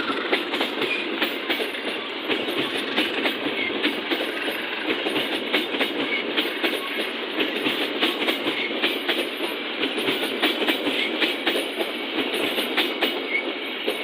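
A train passing close by, its wheels clattering steadily over the rails with many quick clicks.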